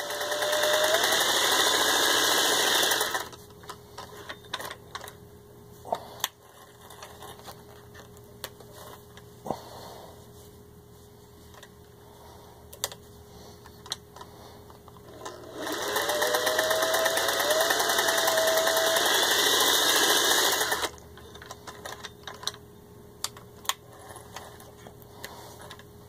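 1955 Singer 403A sewing machine stitching through six layers of denim in two runs, one at the start and a longer one about midway. Each run opens with a whine that rises as the motor speeds up. Scattered clicks and knocks come between the runs.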